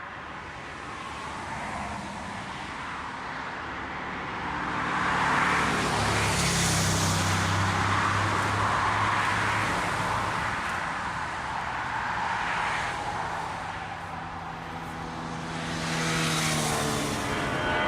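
Jet airliner engines running loud, the noise swelling about five seconds in and again near the end.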